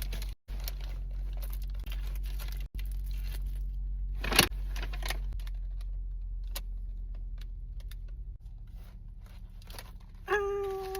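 Low steady rumble of a car's cabin, engine and road, with small clicks and rattles and one sharp click about four seconds in. Near the end a steady held tone with overtones starts and keeps going.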